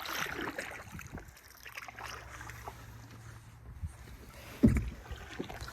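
A canoe being paddled on calm water, with soft water swishes and rustling. About four and a half seconds in there is a single low thump.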